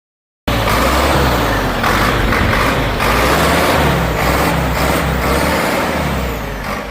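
Caterpillar 518 cable skidder's diesel engine running loud, cutting in abruptly about half a second in and easing off a little near the end.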